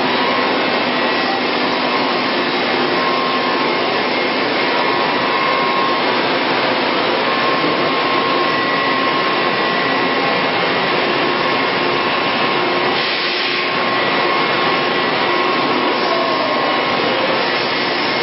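Steady whir of running machine-shop equipment: a fan-like rushing noise with a few steady hums through it, with a slight change in its sound about 13 seconds in.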